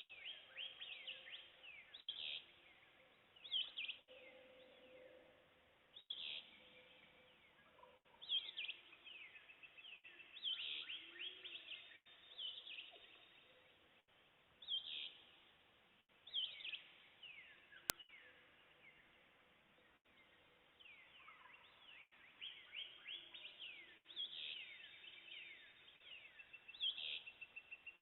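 Dawn chorus of several songbirds in woodland: short, downward-slurred phrases repeating every second or two, overlapping one another. A single sharp click about two-thirds of the way through.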